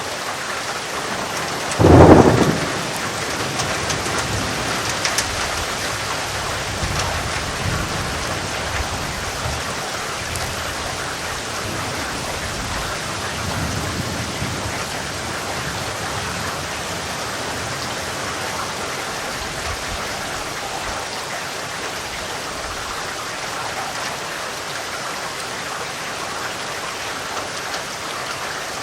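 Steady heavy rain with a sharp thunderclap about two seconds in, rumbling on and fading over the next several seconds, and softer rolls of thunder later.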